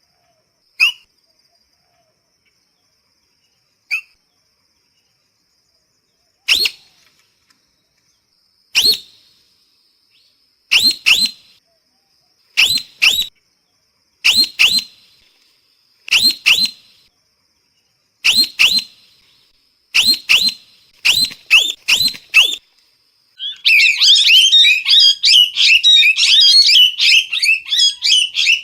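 Parrot calling: short calls, one at a time at first, then in quick pairs and triplets about every two seconds. Near the end they break into a fast, continuous chatter of calls.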